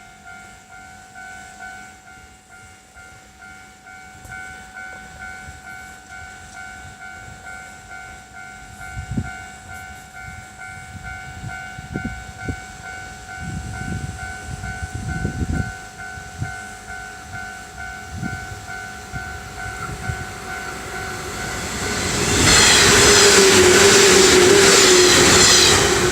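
Railway level crossing alarm ringing in a steady, repeated two-tone ding while a JR San'yō Main Line local electric train approaches, growing louder. About 22 seconds in the train passes close by, loud with wheel and rail noise and a held motor hum, drowning out the bell.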